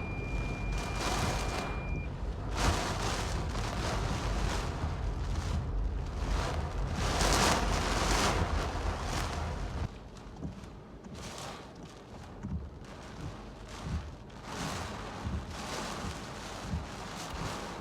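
Hurricane winds gusting and rushing, with a heavy rumble of wind on the microphone. About ten seconds in the sound drops to quieter, choppier gusts.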